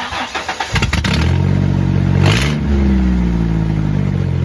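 2000 Ford Mustang's 3.8 L V6 cranking on the starter and catching after about a second, then running with a brief change in engine speed about two seconds in. It has an exhaust leak, which the owner thinks could be at the manifold.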